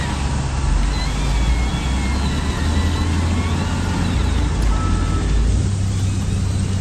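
RC construction models (dozer and dump trucks) running, a steady low engine-like rumble that shifts in pitch about five and a half seconds in, with faint thin wavering whines above it.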